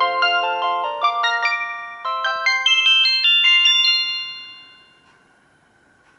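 A Samsung GT-E1182 mobile phone's built-in ringtone: a quick, bright melody of bell-like notes lasting about four seconds, then dying away and leaving only a faint steady hum.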